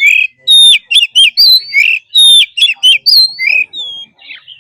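Oriental magpie-robin with a wild forest-type song, singing a fast run of loud, varied whistled notes that sweep up and drop. The song thins out near the end.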